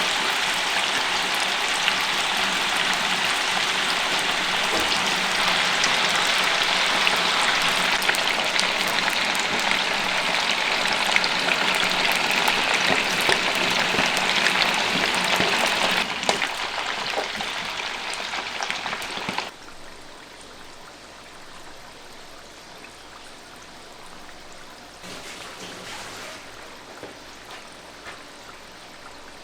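Food frying in hot oil, a loud dense sizzle full of crackles. It falls off sharply about sixteen seconds in and again near twenty seconds, leaving a much fainter hiss.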